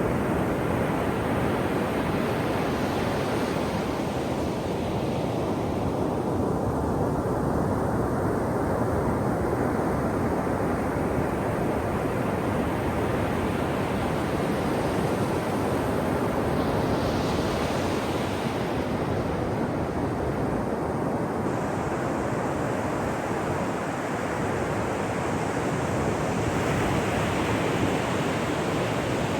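Ocean surf breaking on a beach: a continuous roar of surf, swelling brighter as waves break and wash up the shore about 3 seconds in, again about 17 seconds in, and near the end.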